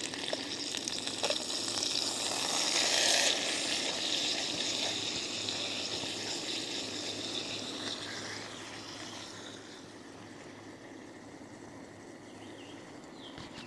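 Steak sizzling in a crowded frying pan as it is flipped, the sizzle swelling about two to three seconds in and then dying down, with a few light clicks near the start.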